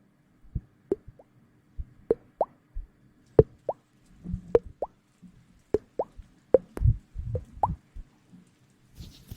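A steady series of short wet plops, mostly in pairs, each plop rising quickly in pitch, with soft low thuds mixed in.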